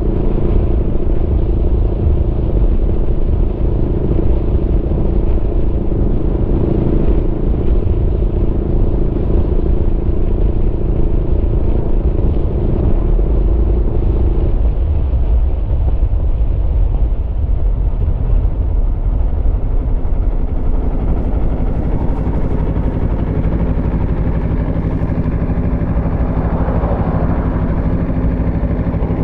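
Aprilia Tuono V4's V4 engine running under way at a steady pitch, its note changing and dropping about halfway through, then holding lower with a rise in pitch near the end.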